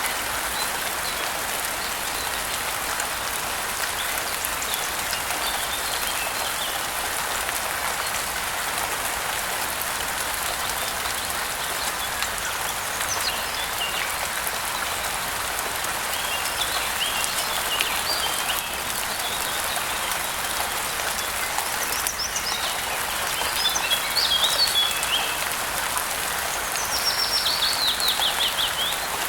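Steady rainfall with birds chirping now and then from about halfway through, and a quick trill of rapid notes near the end.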